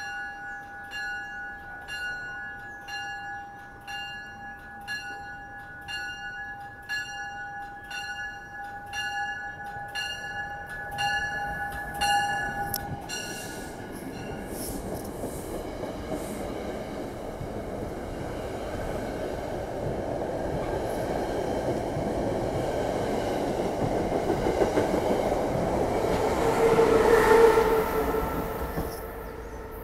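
A bell ringing about one and a half strokes a second until about 13 s in, then a SEPTA push-pull regional rail train passing close by. The passing noise builds and is loudest near the end as the Siemens ACS-64 electric locomotive pushing at the rear goes by, then drops away.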